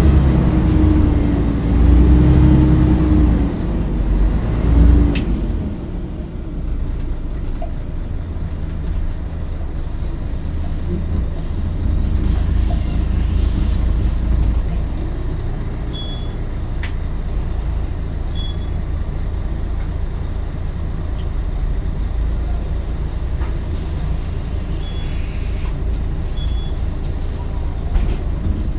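Scania L113CRL bus's diesel engine running: louder with a whine for the first five seconds or so, then a steady low rumble.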